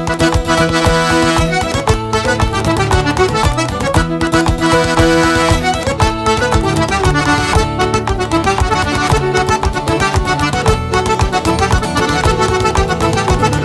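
Québécois traditional dance tune led by accordion, with fiddle and guitar accompaniment and a steady percussive beat of podorythmie (seated foot-tapping) running under it.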